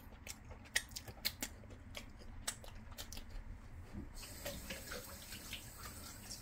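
Faint, wet clicking and smacking of a mouth chewing a sauced piece of battered orange chicken, with many small sharp clicks at first. A faint steady hiss comes in about four seconds in.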